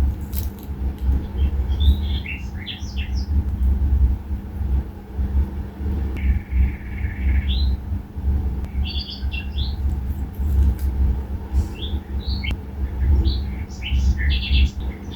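Small songbirds chirping in several short clusters of quick notes, over a steady low rumble.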